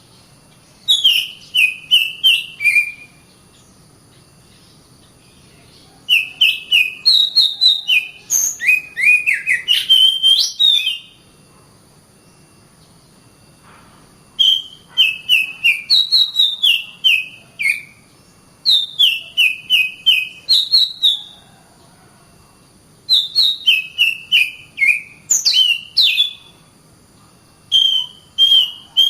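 Oriental magpie-robin (kacer) singing in bursts of a few seconds. Each burst is a quick run of descending whistled notes mixed with sharp clicks, with short pauses between them.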